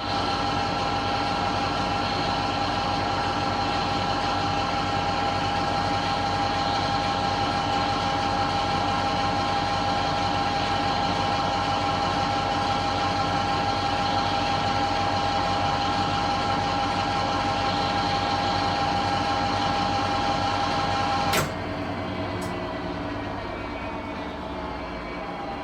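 1966 Bendix LA automatic washing machine on its final spin (up to 650 rpm): a steady high motor whine over drum rumble. About 21 seconds in, the whine cuts off suddenly and the drum coasts down with a fainter, fading sound.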